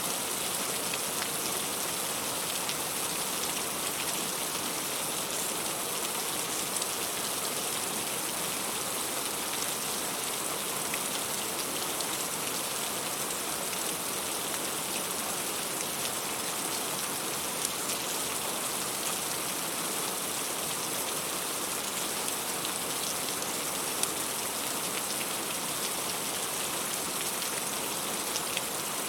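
Heavy rain falling steadily on fruit and leaves, an even hiss of rain with scattered sharper drop ticks.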